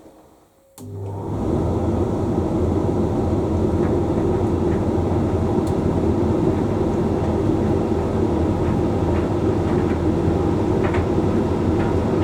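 Hoover Link X Care condenser tumble dryer mid-cycle: after a brief pause the drum motor and fan start again abruptly, a little under a second in, and run with a steady hum, with a few faint ticks.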